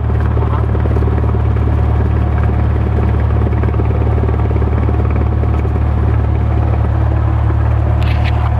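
Light aircraft's piston engine and propeller running with a loud, steady low drone, with a brief higher-pitched rattle near the end.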